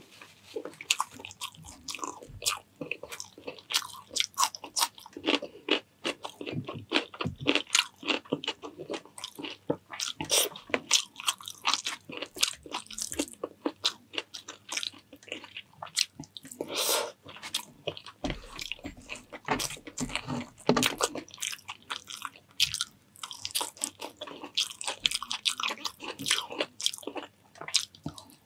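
Close-miked person eating: steady, irregular chewing and crunching of food in the mouth, with many sharp little clicks and crunches.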